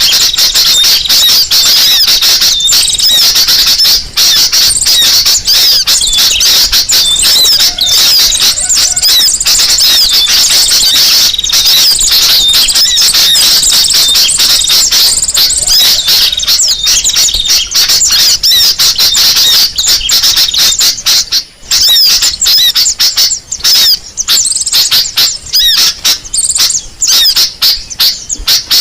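Bird-lure recording of sunbird (kolibri sogok ontong) calls: loud, continuous, rapid high-pitched chirping and twittering, with many quick notes crowding over one another.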